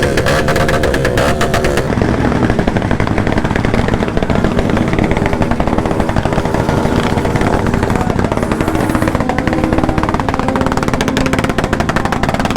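Motorcycle engine running hard and revving, with a loud, rapid pulsing exhaust beat.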